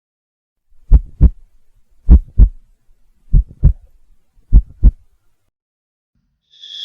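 Heartbeat sound effect: four double beats, lub-dub, about one pair every 1.2 seconds, deep and thudding.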